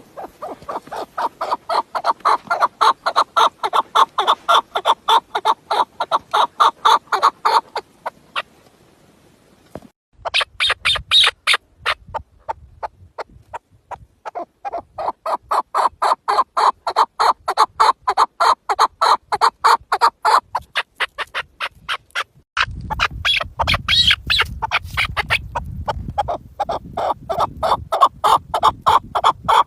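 Chukar partridge calling: long runs of rapid, loud, repeated clucking notes, about four to five a second, building up at the start of each run, in four bouts with short pauses between. A low rumble joins in for the last quarter.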